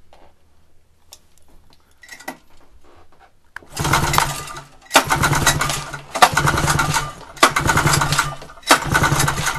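Cuyuna 440 two-stroke twin snowmobile engine being cranked over five times in roughly one-second bursts, starting about three and a half seconds in, for a compression test on the PTO-side cylinder.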